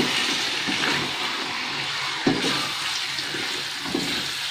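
Beef chunks sizzling in hot oil and spice paste in a wok as they are stirred with a spatula: a steady hiss, with one knock of the spatula against the pan about two seconds in.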